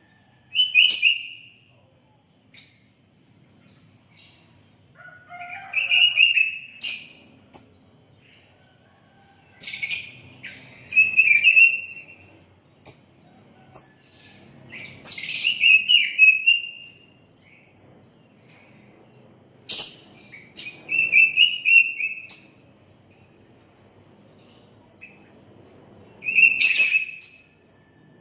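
Sooty-headed bulbul (kutilang) singing: short, bright whistled phrases in bursts every few seconds, some quickly repeated in twos and threes.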